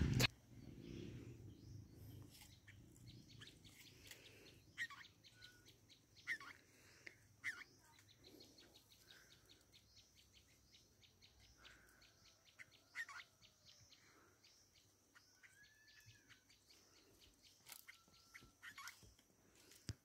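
Faint bird chirps and short whistled calls, a few of them gliding up and then down, with scattered sharp clicks.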